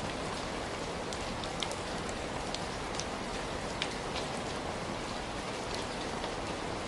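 Heavy rain falling steadily, a dense even hiss with scattered individual drops ticking sharply on a surface.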